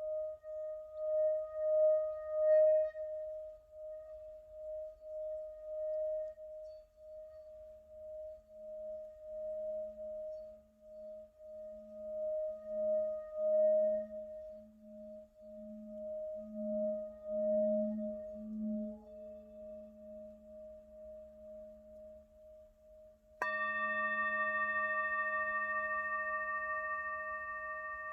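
Singing bowls ringing, their tones pulsing with a slow wobble. About 23 seconds in a bowl is struck and rings out with several bright overtones, fading slowly.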